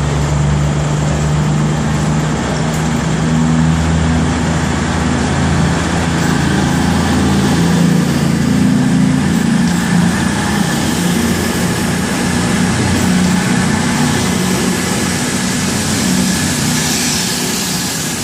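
CrossCountry Class 220 Voyager diesel-electric multiple unit pulling out of the station, its underfloor diesel engines running steadily under power.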